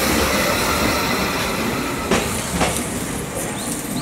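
Sotetsu 8000 series electric train running past at close range: steady rumble of wheels on rail, with two sharp clacks a little over two seconds in, fading as the last car goes by.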